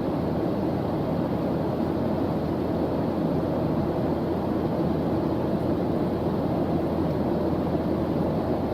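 A steady white-noise ambience track: an even, deep hiss, heaviest in the low range, with no changes or breaks.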